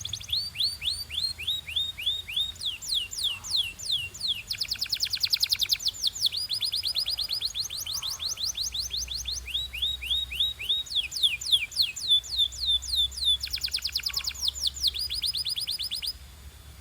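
Domestic canary singing: runs of rapidly repeated downward-sweeping notes, each run switching to a new speed and pitch every second or two. The song stops just before the end.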